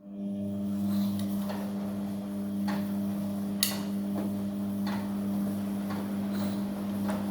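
Amica front-loading washing machine in its main wash: the drum motor starts turning again after a silent pause, with a steady electric hum and irregular light clicks and knocks as the wash tumbles.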